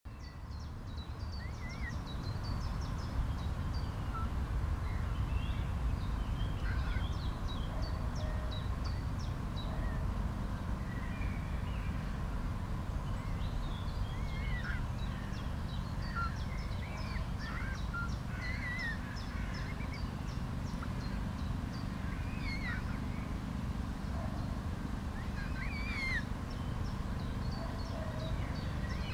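Birds peeping and chirping: many short, high calls scattered throughout, some rising and falling, over a steady low rumble.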